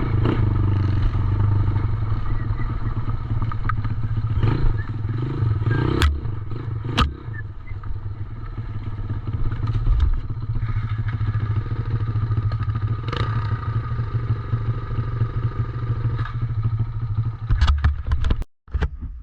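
110cc dirt bike engine running steadily, with rattling and two sharp knocks about six and seven seconds in.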